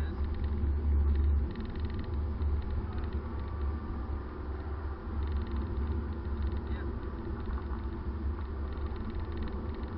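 Car in motion heard from inside the cabin: a steady low engine and road drone, a little louder for the first second or so.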